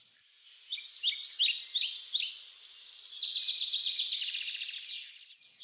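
Birds chirping: many quick, falling chirps overlapping, starting about a second in, with a fast trill in the middle, fading out near the end.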